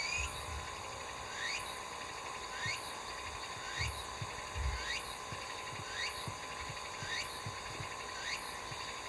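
A small animal's short rising call, repeated evenly about once a second, over a steady high-pitched drone.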